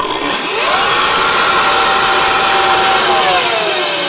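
Twin electric turbochargers, their electric-motor-driven compressors spinning up to a loud high whine in about half a second. They hold the whine steady for about two seconds, then spool down with a falling pitch.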